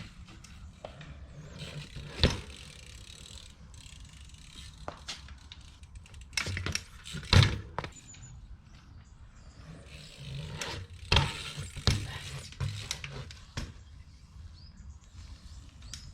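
Mountain bike being ridden: a steady low rumble from the tyres on the ground, broken by several sharp knocks and thuds. The loudest comes about seven seconds in, with two more close together about eleven and twelve seconds in.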